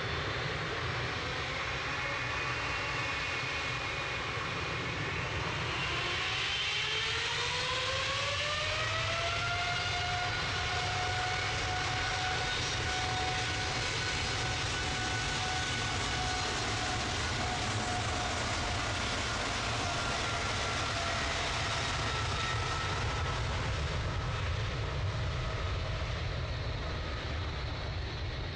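Jet airliner's engines spooling up for the takeoff roll: a whine that climbs steeply in pitch for a few seconds over a steady rumble, then holds at takeoff thrust.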